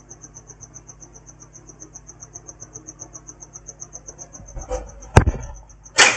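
Cricket chirping steadily, a high rapid pulse at about ten pulses a second, with two sharp knocks about five and six seconds in.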